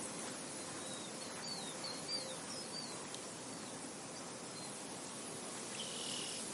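Steady wind blowing across an open field, with a bird chirping a quick run of short notes from about a second in to about three seconds, and one more short call near the end.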